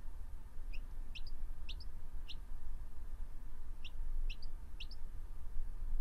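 A baby bird peeping: short, high, rising chirps, four in quick succession, then after a pause of about a second and a half, three more.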